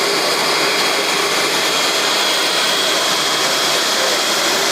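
Steady jet aircraft noise: an even roar with a constant high whine.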